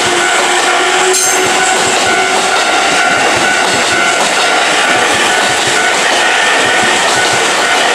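A train passing close by at a railway level crossing: a loud, steady rumble of wheels and running gear, with a sharp knock about a second in. Over it run the repeated ringing tones of the crossing's warning bell.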